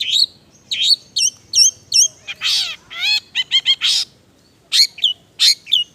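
Long-tailed shrike singing a varied song filled with mimicked calls of other birds: sharp chips and hooked whistled notes, a harsh rasping note about two and a half seconds in, then a quick run of repeated notes and more short sharp calls.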